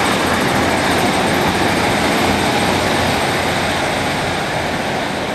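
Diesel multiple-unit passenger train passing close by: a loud, steady rumble of engine and wheels on rail that eases off a little near the end.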